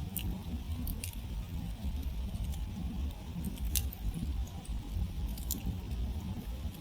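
Wood campfire burning down to embers, crackling with a few sharp pops, the loudest a little before the four-second mark, over a low steady rumble.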